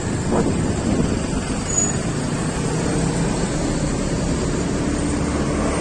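Steady road noise while travelling in traffic: a vehicle's engine and tyres running along with wind buffeting the microphone, as a low, even rumble.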